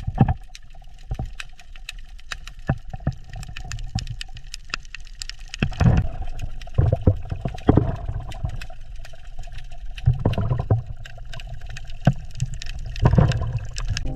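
Water sounds: gurgling and sloshing over a low rumble, with many scattered sharp clicks and crackles and louder surges several times.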